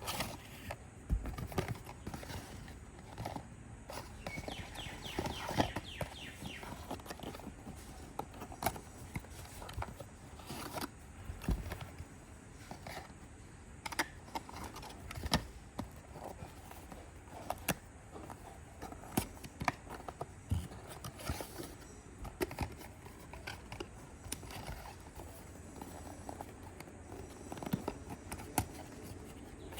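Happy Meal toy packaging being handled and opened by hand: irregular clicks and taps of plastic, with a brief rasp about four to six seconds in.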